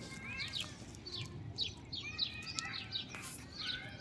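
Small birds chirping: many short, high notes that sweep downward, several a second and overlapping, as from more than one bird.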